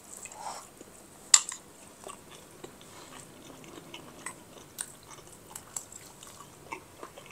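A person chewing a mouthful of jengkol (dogfruit) balado with rice, with soft scattered mouth clicks. There is one sharp click about a second in.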